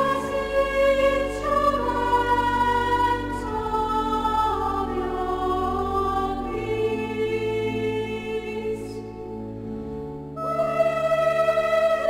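Sung music with accompaniment: long held notes that move from phrase to phrase. A quieter passage comes near the end, and then a new, louder phrase enters.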